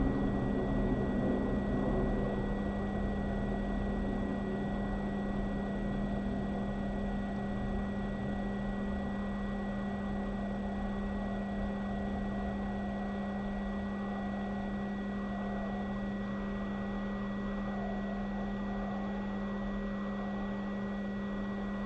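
Hot air rework station blowing steadily while heating a chip to desolder it from a phone's logic board: a constant rushing hum with a steady low tone and a faint high whine.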